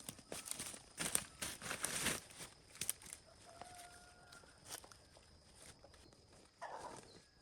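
Chickens calling amid rustling and clicking handling noises. A single drawn-out call comes about halfway through, and a short clucking call near the end.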